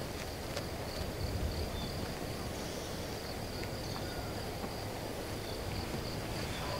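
An insect calling in a steady, high-pitched pulsing trill, over a low rumble of wind on the microphone.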